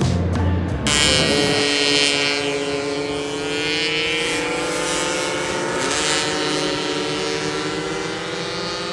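Music stops about a second in, cut off by a racing motorcycle engine held at high revs, its pitch climbing slowly with a couple of small steps.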